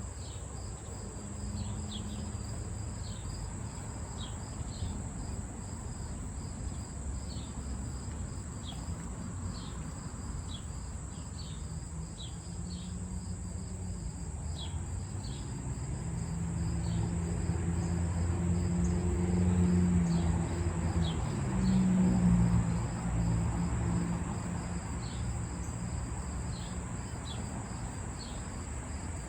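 Crickets and other insects chirping and trilling steadily in an evening chorus, with a steady high whine and short repeated chirps. A low rumble swells and fades in the second half.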